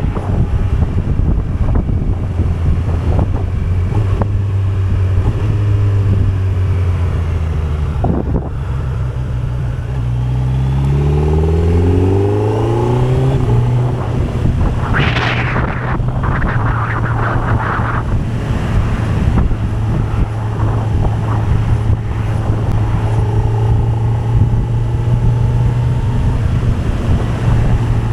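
Kawasaki Z900's inline-four engine running steadily, its revs climbing for a few seconds about a third of the way in and then holding at a steady pitch. A short rush of noise comes a little past halfway.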